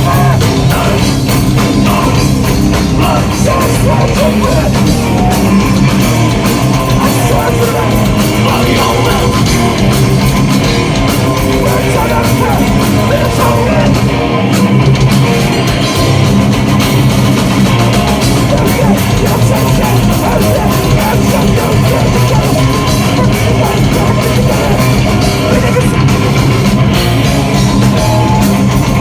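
A hardcore punk band playing live, with distorted electric guitars and a drum kit, loud and continuous.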